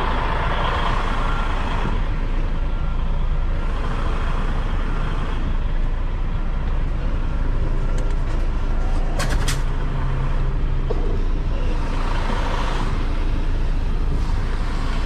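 Semi truck's diesel engine running low and steady while the rig is slowly reversed, with a brief cluster of sharp clicks about nine seconds in.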